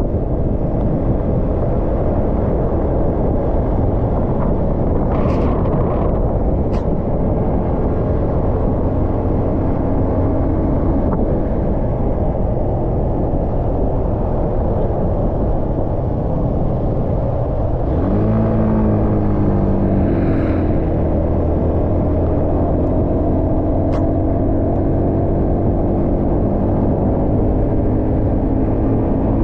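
150cc motorcycle engine running at road speed under heavy wind rush on the rider's microphone. About two-thirds of the way through the engine note drops, then rises sharply and keeps climbing as the bike accelerates.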